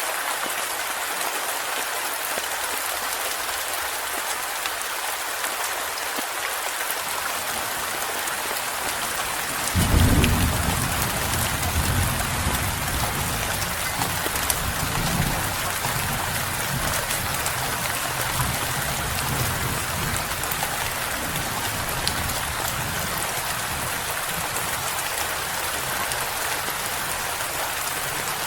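Steady rain hissing, joined about a third of the way in by a sudden peal of thunder whose low rumble rolls on and slowly fades under the rain.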